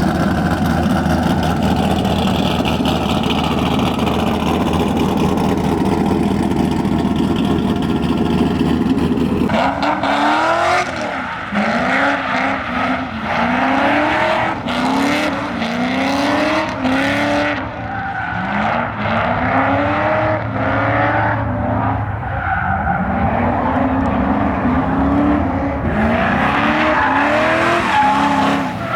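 2005 C6 Corvette's V8 engine revving hard during drifting. After a steady, dense sound for about the first third, the revs rise and fall over and over, about once a second, with tyre squeal.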